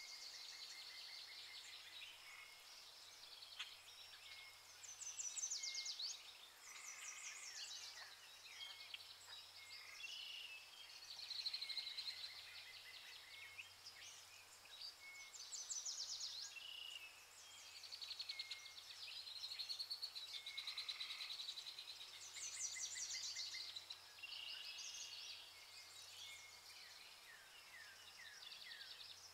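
Birds singing: many overlapping chirps and fast trills come and go, over a faint low hum.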